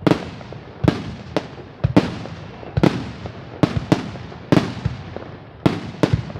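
Fireworks display: a dozen or so sharp bangs, often in quick pairs, each trailing off in an echoing rumble.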